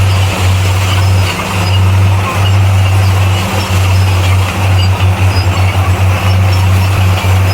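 Heavy earthmoving machinery's diesel engine running loud and steady, with a deep low hum and a choppy, pulsing stretch near the end.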